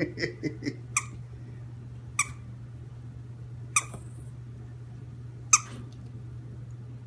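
Short, high yips from a pet: a quick flurry at the start, then single yips every second or two, over a steady low hum.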